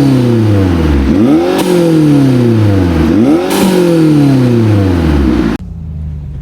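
Mercedes E300 engine with QTP exhaust cutouts being revved repeatedly, each rev a sharp rise in pitch followed by a slow fall, about every two seconds. Near the end the sound cuts off suddenly to a much quieter low drone.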